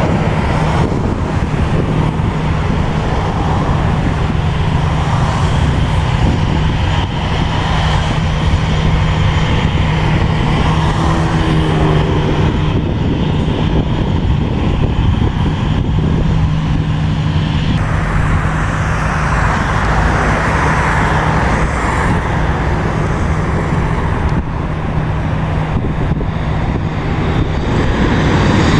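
Steady, loud engine noise with a constant low hum, growing louder near the end.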